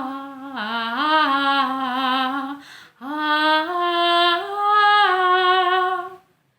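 A woman's solo singing voice holds a wordless 'ah' line in two long, slow phrases, the second pitched higher, before stopping near the end.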